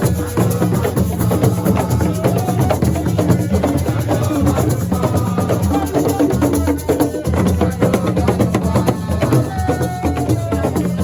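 Live percussion-driven music in the assiko style: a dense, fast, steady beat of drums with shakers and wood-block-like clicks.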